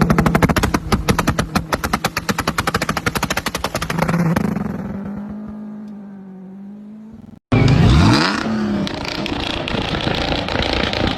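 Car exhaust firing a rapid, even string of loud pops over the running engine, then settling into a steady, fading idle. After an abrupt cut, an engine revs with its pitch dropping and then rising again.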